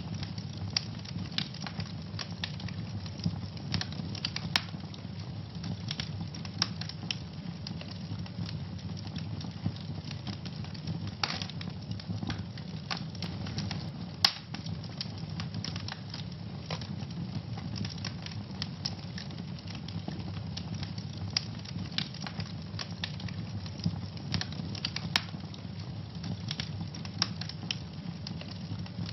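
Wood fire burning in a fireplace: a steady low rumble of flames with frequent sharp crackles and snaps at irregular intervals, one louder pop about halfway through.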